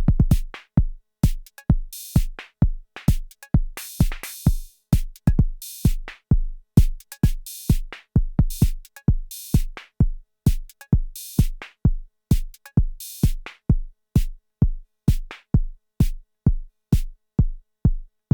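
Arturia DrumBrute Impact analog drum machine playing a steady electronic beat: a deep kick pattern with short sharp hits, and a hissing cymbal crash about every two seconds.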